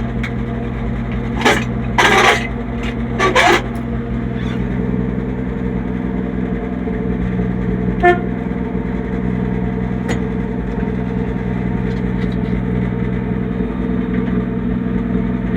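1966 Chevy C10's 250 inline-six engine idling steadily, with a few short loud noises in the first four seconds.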